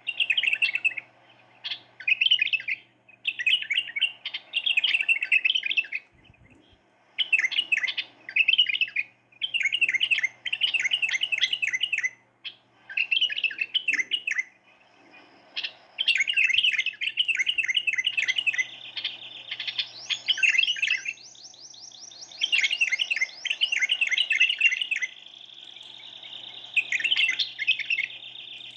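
A bulbul and a canary singing against each other: short, fast chirping phrases repeated every second or two, and from about two-thirds of the way in, long rolling trills held for several seconds.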